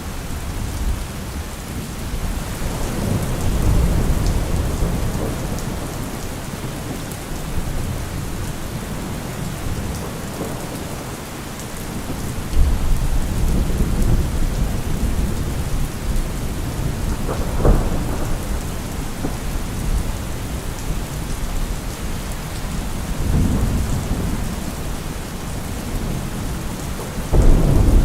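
Heavy rain pouring steadily, with deep low rumbles that swell and fade several times; the loudness jumps suddenly about twelve seconds in and again near the end.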